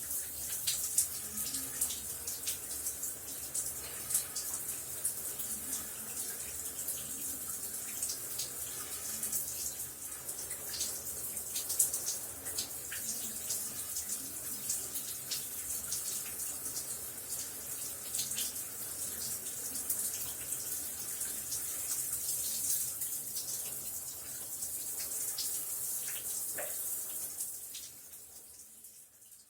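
Shower running: a steady hiss of spraying water with many small splashes and spatters, fading out near the end.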